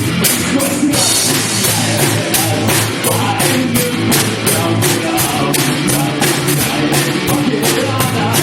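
Rock band playing live: drum kit, guitars and bass, with the drums keeping a steady beat of about three hits a second.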